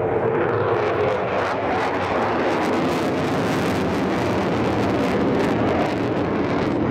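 Jet engines of a multi-role fighter jet in flight, a loud steady noise.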